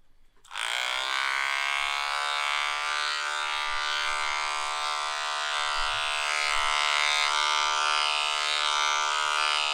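Small electric dog-grooming clippers switched on about half a second in, the motor rising quickly to speed and then running with a steady buzz while clipping a dog's fur at the 2 mm setting.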